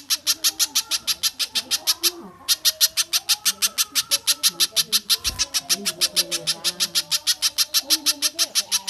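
Bird calling a fast, even series of sharp chip notes, about seven a second, with one brief pause about two seconds in; softer, lower warbling calls run beneath.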